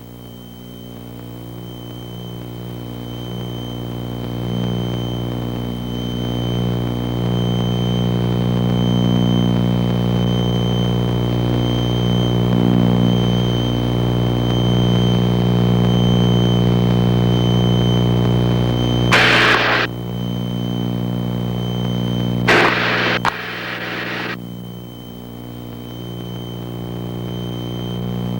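Piper Seneca's twin piston engines and propellers droning steadily in a climb, heard in the cockpit with a thin steady whine on top; the drone grows louder over the first several seconds. Two short bursts of hiss come about two-thirds of the way through.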